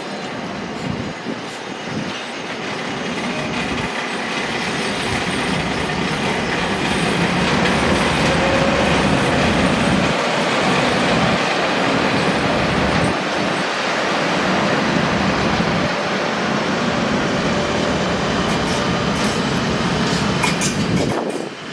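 An SBB Re 420 (Re 4/4 II) electric locomotive and its train running along the track, a steady rumble of wheels on rail. It grows louder over the first several seconds and then holds.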